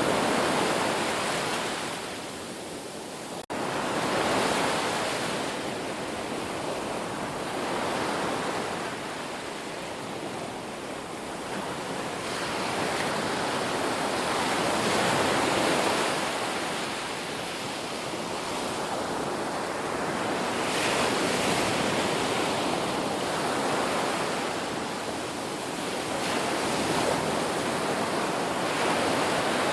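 Sea waves breaking and washing in, the surf swelling and fading every few seconds in a steady series. There is a momentary dropout about three and a half seconds in.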